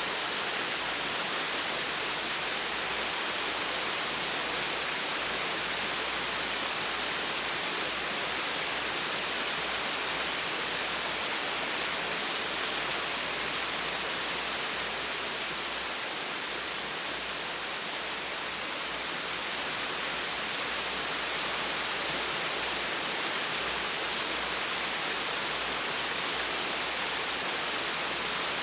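A small waterfall splashing steadily, a continuous even rush of falling water.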